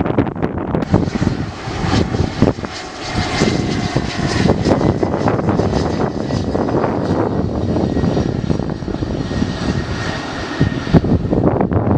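Airliner's jet engines running as the plane passes: a steady roar with a faint whine that sinks slightly, fading out near the end. Gusts of wind buffet the microphone throughout.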